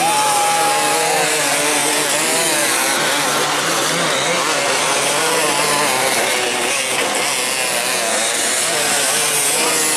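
Several enduro dirt bike engines revving hard at once, their pitches wavering up and down as the riders work the throttles.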